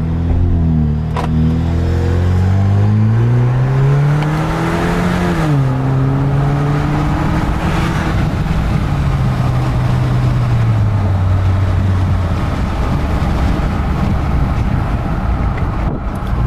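2020 Jeep Wrangler's 2.0-litre turbo four-cylinder through an AFE axle-back muffler-delete exhaust, heard from the cabin with the window down. The engine pulls up in revs for about five seconds and drops at a gear change. It climbs briefly again, then winds down over several seconds as road and wind noise take over near the end.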